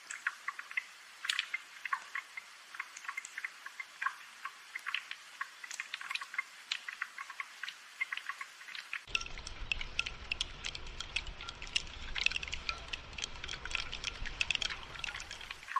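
Rain dripping and pattering, a dense scatter of close individual drops over a light hiss of falling water. About nine seconds in, a low rumble joins the rain.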